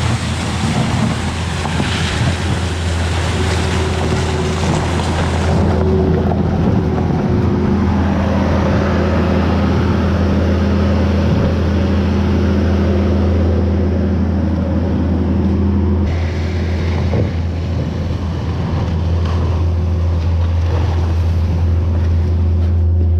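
A heavy machine's engine running steadily at constant speed, a loud, even drone with a steady hum under it.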